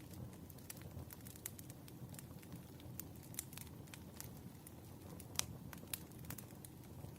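Wood fire burning: a low steady rumble with irregular sharp crackles and pops, the loudest pop about five seconds in.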